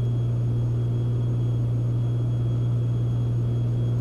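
Steady drone of a Beechcraft Baron B55's twin six-cylinder piston engines and propellers in flight, heard inside the cabin as an even low hum.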